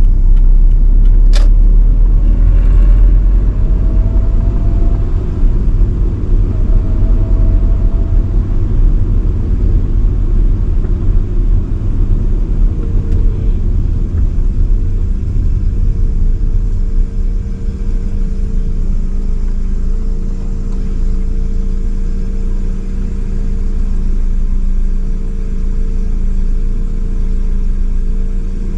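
1985 Nissan Sunny B12 driving at highway speed: a loud, steady rumble of engine and road noise. A sharp click comes about a second in, two short rising tones follow over the next few seconds, and a steady drone settles in for the second half.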